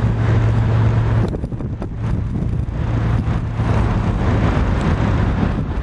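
Steady low vehicle rumble with a constant low hum and wind on the microphone, dipping briefly about a second and a half in.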